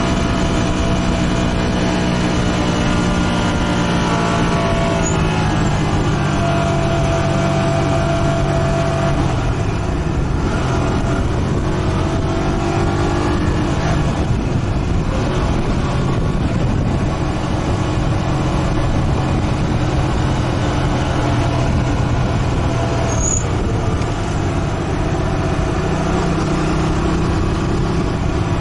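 Motorcycle engine running under way, its pitch rising and falling with the throttle, over steady road and wind noise.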